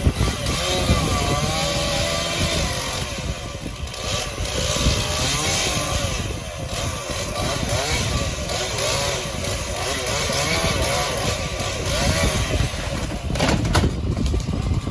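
Two-stroke chainsaw running and cutting, its engine pitch rising and falling again and again as the chain bites into the wood and frees up. A short sharp noise comes near the end.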